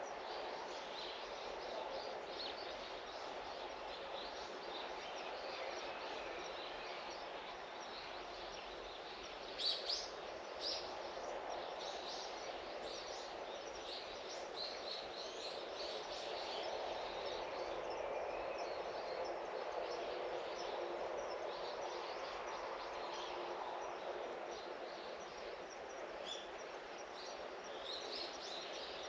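Small birds chirping in short high calls over a steady background of outdoor noise, with a few louder chirps about ten seconds in.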